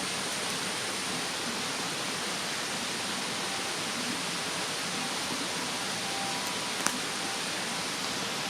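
Steady rushing of a mountain stream, with a few sharp pops of a wood fire crackling, the loudest one near the end.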